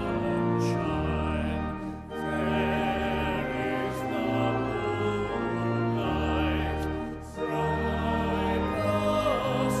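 Choir singing a slow hymn over sustained low accompaniment, with brief breaks between phrases about two seconds in and about seven seconds in.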